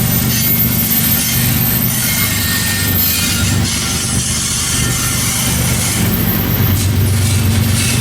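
Freight train rolling past close by, a steady loud rumble of the cars on the rails with a few brief high wheel squeals.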